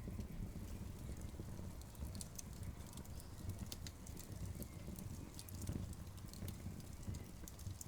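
Wood campfire burning: irregular sharp crackles and pops of the burning wood over a low steady rumble.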